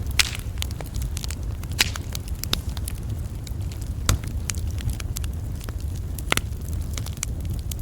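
Campfire crackling with frequent irregular sharp pops, a few of them louder, over a steady low rumble.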